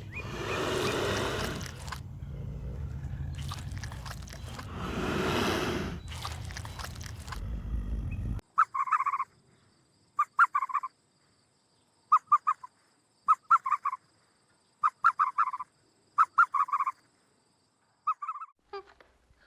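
A large animal roaring twice, long and rough, over a low rumble. Then, after a sudden cut to quiet about eight seconds in, a bird gives short pulsed honking calls, about seven of them, spaced a second or so apart.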